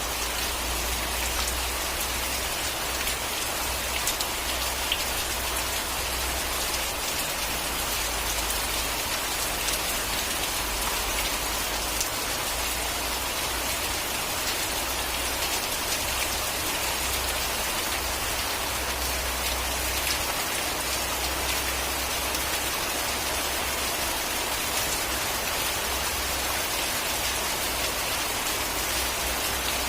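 Steady rain falling, a dense even hiss with scattered individual drop ticks and a low rumble underneath.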